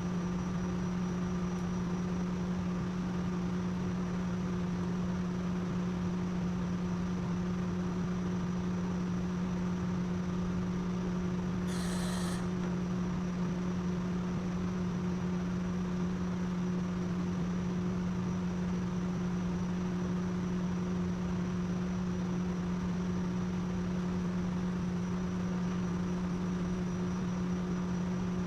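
A steady mechanical hum at one low pitch that does not change, over an even background hiss, with a brief sharp noise about twelve seconds in.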